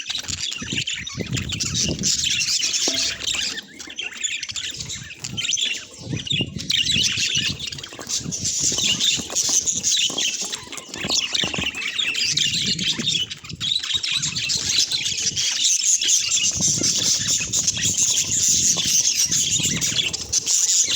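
A group of budgerigars chattering and warbling continuously in quick chirps, with intermittent low rustling and fluttering underneath.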